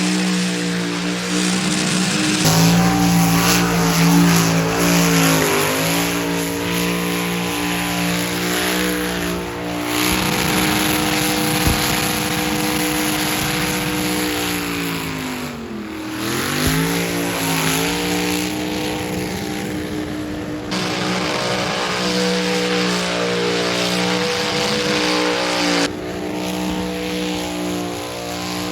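LS-swapped 2001 Ford Crown Victoria doing a burnout: the engine is held at high revs, with the tyres spinning and squealing. The revs drop and climb back twice, about five seconds in and again about sixteen seconds in.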